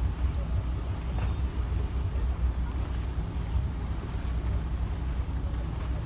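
Wind buffeting the microphone, a gusty low rumble over a steady hiss of sea and boat noise.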